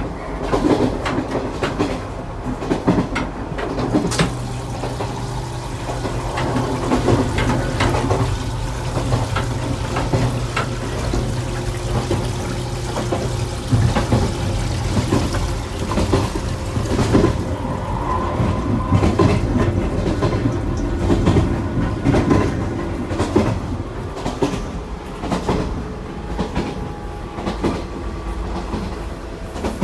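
415 series electric train running, heard from on board: a steady rumble with the wheels clicking over rail joints. A low steady hum sets in about four seconds in and fades about halfway through.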